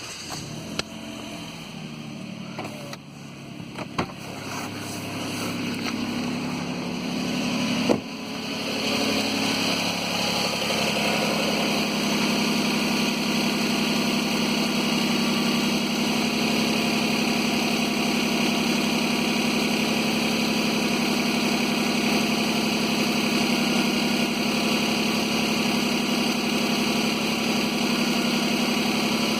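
Suzuki Grand Vitara 2.7 V6 engine running at idle just after starting. It grows louder over the first eight seconds, with a few sharp clicks, then runs steadily.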